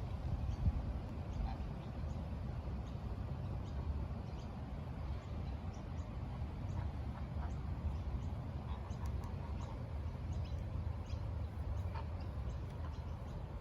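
Geese calling with short, scattered honks over a steady low rumble.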